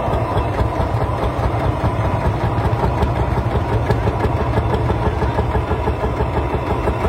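A 1941 Lanz Bulldog's horizontal single-cylinder two-stroke hot-bulb diesel, about 5 litres and 20 hp, running steadily after a hand start.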